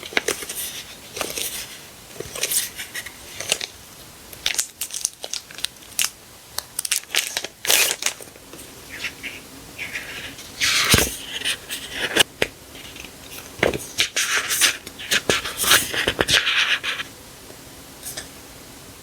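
Sticker sheets and their paper and plastic packaging being handled: irregular rustling, light taps and clicks, with two longer bursts of crinkling about ten and fifteen seconds in.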